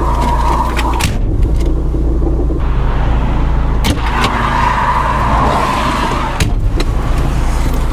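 Opel Kadett D (Astra Mk1) 1.6S's engine running steadily, with a few sharp knocks and two spells of scraping hiss from under the car, the noise of a rear exhaust silencer that has worked loose, first taken for a dragging mud flap.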